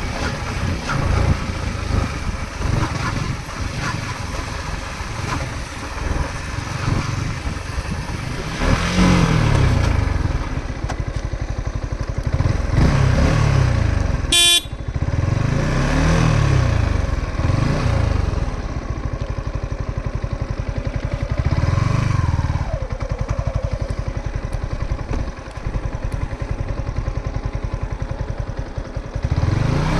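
A vehicle engine running, its pitch rising and falling several times as it speeds up and slows down, over a steady rumble. The sound breaks off sharply for a moment about fourteen seconds in.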